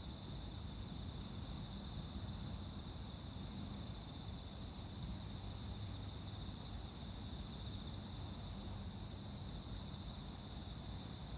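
Chorus of insects singing, a steady, unbroken high-pitched trilling, over a low rumble.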